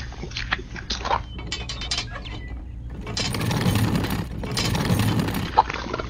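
Irregular plastic clicking and ticking from a miniature model concrete mixer's drum mechanism as it is tipped. About halfway through comes a louder wet sloshing of concrete mix pouring, lasting a couple of seconds.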